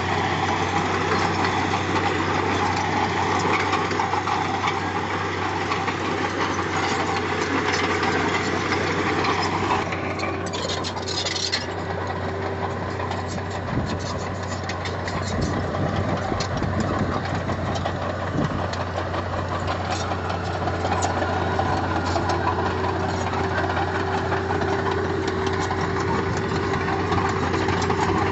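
Heavy-equipment diesel engine running steadily, with its note shifting about ten seconds in and a brief hiss at that point.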